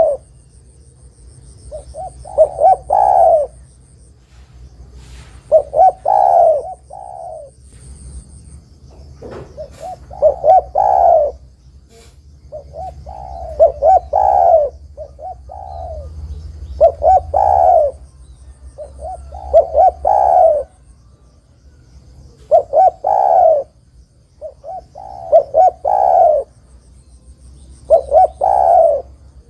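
Spotted dove (derkuku) cooing: loud, repeated phrases of a few quick notes ending in a longer coo, about one phrase every three seconds. This is the bird's calling song, played as a lure to draw other doves to answer.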